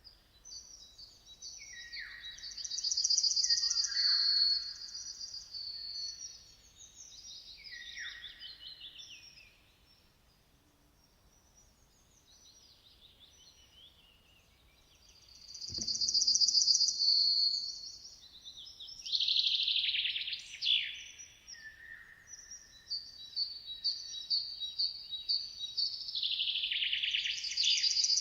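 Several songbirds singing in bursts of fast trills and chirps, with a lull of a few seconds in the middle.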